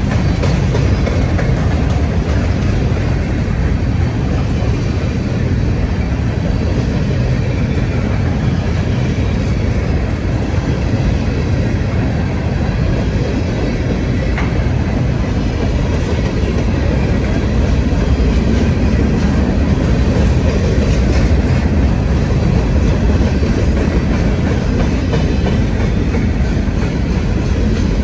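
Freight train cars rolling past close by: a loud, steady rumble of steel wheels on rail that does not let up.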